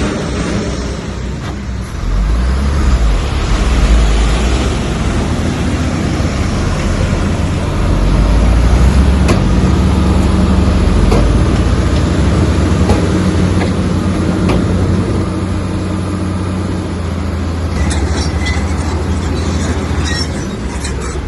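Komatsu bulldozer's diesel engine working under load, a deep steady drone that swells about two seconds in and again around eight seconds, with a few sharp clanks.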